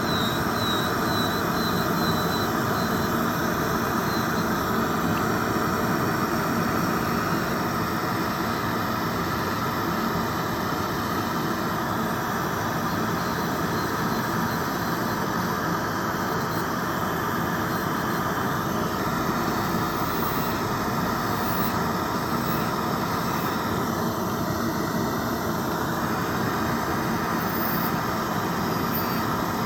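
Electric nail drill (e-file) running steadily at high speed, its bit grinding gel off a nail.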